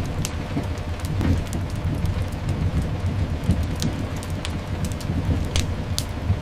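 Layered ambience of steady rain hiss over a continuous low rumble of a moving train, with scattered sharp crackles from a fireplace.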